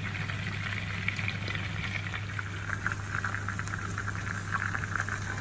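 Chicken drumsticks and sliced carrots sizzling and bubbling in hot oil and juices in a frying pan, a steady crackle that grows stronger about halfway through, over a steady low hum.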